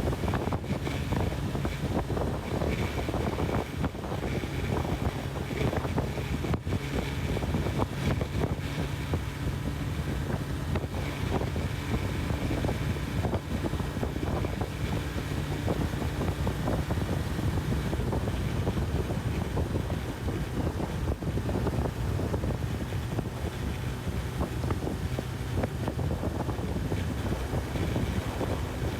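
Wind rushing over the microphone at riding speed, over the steady drone of a Honda CB1000R's inline-four engine while cruising.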